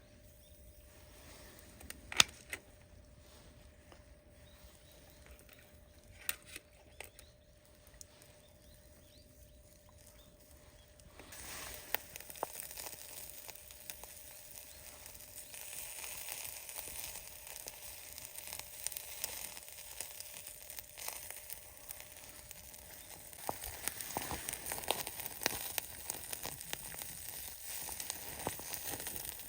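Food sizzling and crackling over a charcoal grill. The first part holds only a few sharp clicks; the sizzle starts suddenly about a third of the way in and gets louder near the end.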